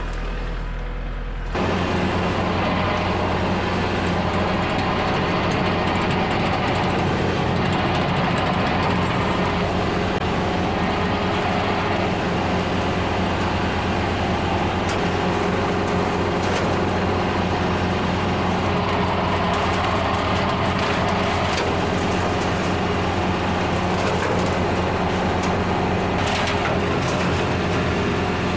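Kubota L4701 diesel tractor running steadily. About a second and a half in, the sound abruptly turns louder and fuller, with a dense rushing noise over the engine hum.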